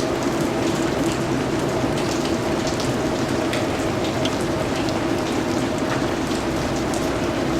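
Steady rainfall, with the ticks of individual drops striking a surface over an even rushing wash.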